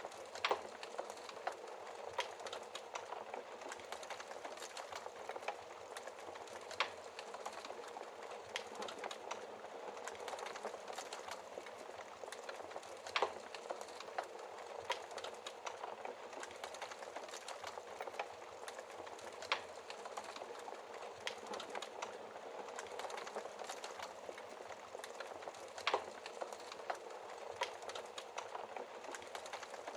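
Wood fire crackling steadily with many small snaps, and a louder pop about every six seconds.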